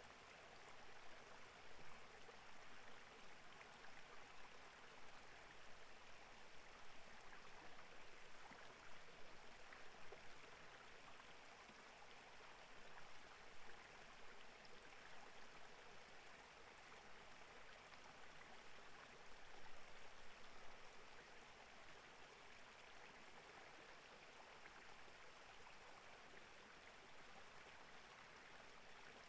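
Clear mountain stream flowing over rocks: a faint, steady rush of water with small swells of splashing now and then.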